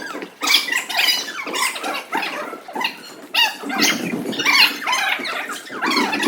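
Young children's voices: overlapping high-pitched shouts, squeals and chatter, constant and jumbled.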